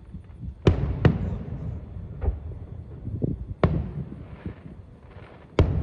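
Fireworks shells bursting in a display: sharp booming bangs, two close together about a second in, another past the middle and one near the end, with softer thuds between, each bang trailing off in an echo.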